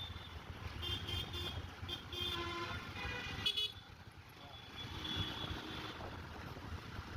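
Vehicle horns tooting in road traffic: several short toots in the first few seconds and another about five seconds in, over the steady low rumble of a motorcycle ride.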